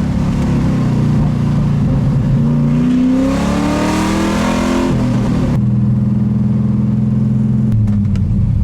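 LS3 V8 engine in a Miata under throttle. Its pitch climbs for about two seconds, falls away sharply about five and a half seconds in, then runs steady and drops a step near the end.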